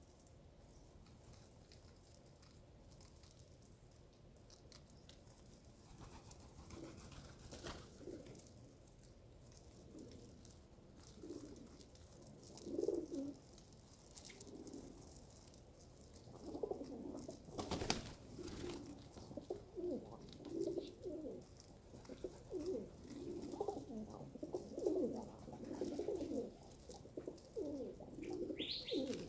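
Pigeons cooing, low calls that are sparse at first and come one after another through the second half. A few sharp taps sound among them, the loudest about two-thirds of the way through.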